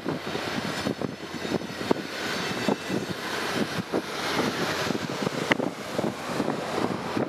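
Via Rail passenger cars rolling past close by: a steady rushing roar of steel wheels on rail, with scattered clicks and knocks.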